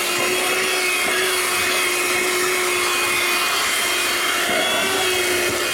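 Audew 12V DC handheld car vacuum cleaner running steadily as it picks up dirt from a flat floor: a steady whine over a rushing hiss.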